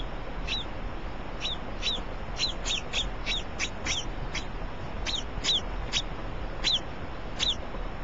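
Small brown pet bird chirping again and again: short, high chirps, each sliding down in pitch, about two a second at an uneven pace.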